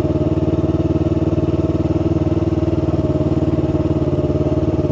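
2018 Yamaha R3 motorcycle's parallel-twin engine running at a steady pitch while being ridden slowly, picked up by a helmet-mounted mic.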